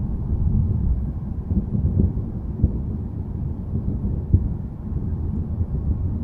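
Low, continuous thunder rumble, a deep rolling sound with almost nothing high-pitched in it, with a couple of brief crackles about two and a half and four and a half seconds in.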